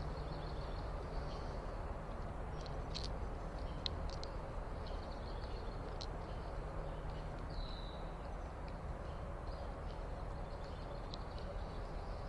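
A few faint, short bird chirps, one of them a brief falling note near the middle, over a steady outdoor background of low rumble and hiss.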